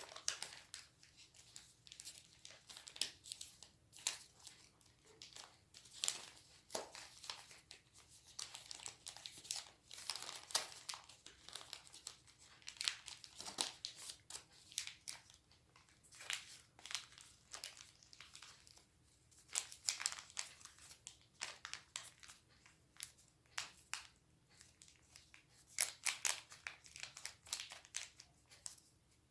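A sheet of origami paper being folded and creased by hand: crisp rustles and crinkles in uneven runs, with short pauses between them.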